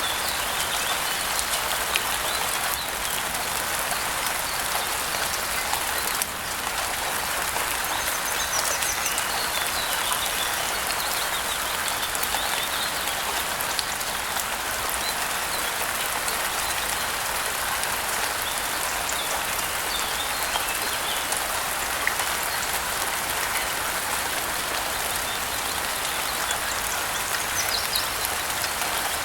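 Steady rain falling, an even patter throughout, with a few faint bird chirps now and then.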